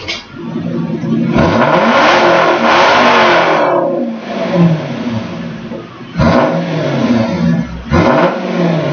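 Car engine and exhaust being revved in place: one long rev that climbs, holds and falls back, then two short throttle blips near the end.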